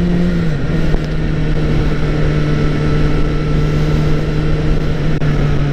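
Honda CBR sportbike engine running at a steady speed, its note stepping down slightly in pitch about half a second in, over a constant noisy rush.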